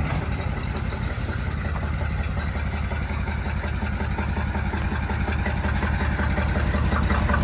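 Ford 7.3 IDI turbo diesel V8 idling steadily with an even, rapid pulse, running on its own after sitting for years.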